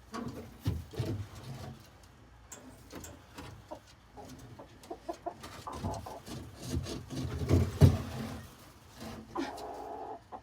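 Chickens clucking, mixed with a run of knocks and bumps from an old kitchen cabinet being shifted into place. The loudest bump comes about eight seconds in.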